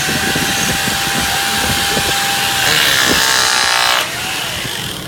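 A power saw running and cutting wood, with a steady motor whine under the cutting noise; it stops suddenly about four seconds in.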